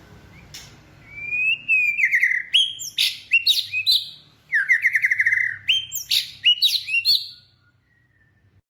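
A bird singing in quick, loud phrases of sliding whistled notes and fast trills, starting about a second in and stopping about seven seconds in.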